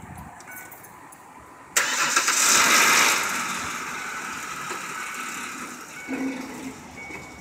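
A pickup truck's engine is started: the starter engages about two seconds in and the engine catches with a loud flare, which eases over the next few seconds into a steady idle.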